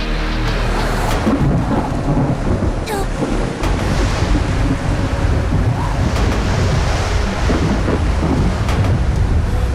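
Thunderstorm: heavy rain with a steady low rumble of thunder, and a couple of sharper cracks.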